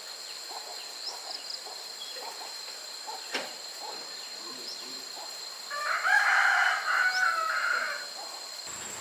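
A rooster crowing once, a long call starting about six seconds in, with faint chirps before it and a steady faint high whine underneath.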